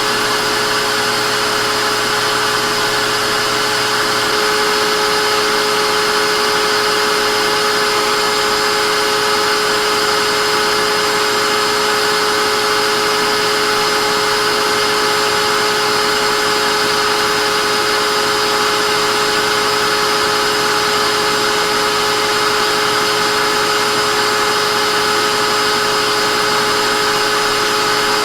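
Vacuum cleaner running steadily: an even rush of air with a steady motor whine over it. A faint low hum drops away about four seconds in.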